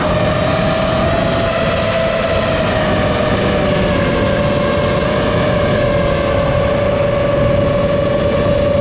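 7-inch FPV quadcopter in flight, its EMAX ECO II 2806 brushless motors and propellers whining steadily, the pitch sagging slowly toward the end, with wind rushing over the onboard camera's microphone.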